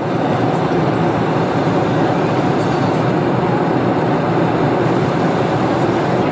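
Steady rushing cabin noise inside a Boeing 747-400 in flight, the even roar of airflow and engines heard from an economy seat.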